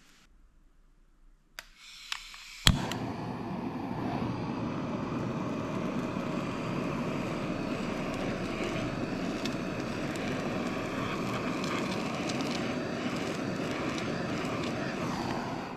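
Handheld blowtorch lit with a couple of clicks, then its flame running steadily until it is shut off near the end, searing the skin of snapper fillets.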